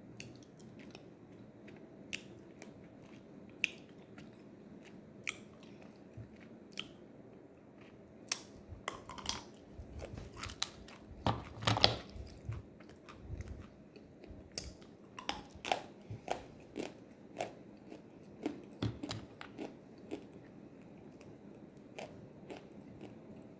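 Close-up chewing and biting of crunchy baked edible clay (nzu): irregular sharp crunches and cracks, most frequent and loudest around the middle.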